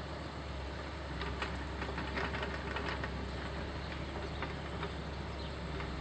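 Diesel machinery running steadily, with a stretch of clattering and scraping from about one to five seconds in, as of an excavator bucket working drain cleanings.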